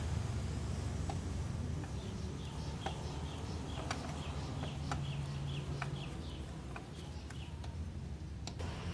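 Small birds chirping in quick short notes over a steady low engine hum, with a few sharp clicks.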